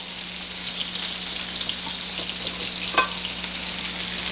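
Sliced bell peppers and scallions sizzling in oil in a skillet over medium to medium-high heat, a steady crackle of fine pops. A single metallic clink about three seconds in.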